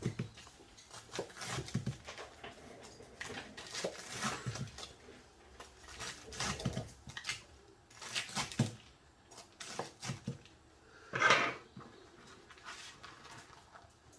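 Knife cutting fried, breadcrumbed chicken katsu into strips: a run of short cuts and knife taps, with one louder clatter near the end.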